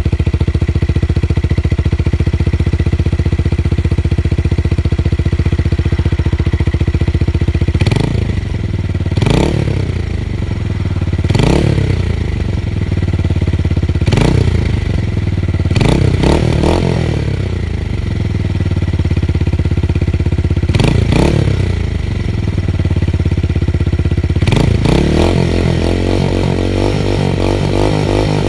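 Tuned motorcycle engine idling with a deep bass note, then blipped about eight times, each rev rising and falling back to idle. Near the end it runs rough and uneven.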